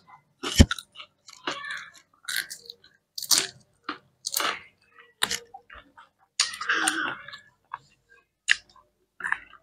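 People chewing pieces of grilled octopus: a string of short, irregular, crisp chewing sounds with brief gaps between them.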